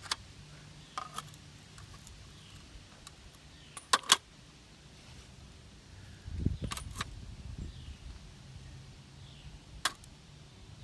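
Scattered sharp clicks and clinks of small hard objects being handled, with two loud clicks close together about four seconds in, and a low rumble with a few more clicks around six to seven seconds.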